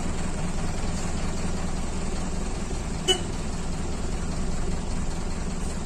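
Mercedes-Benz OF 1721 bus's front-mounted diesel engine running steadily, with a single short click about halfway through.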